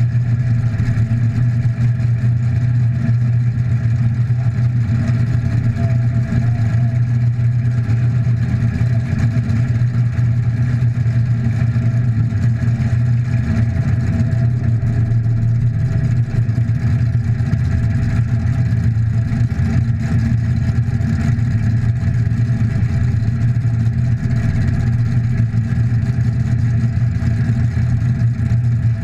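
Demolition derby car's engine idling steadily, heard from inside the gutted cab, with the engines of the other derby cars lined up around it.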